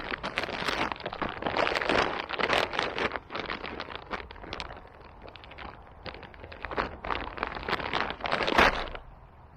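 Close rustling and crackling in uneven bursts, like movement through dry undergrowth right by the microphone. It stops about nine seconds in.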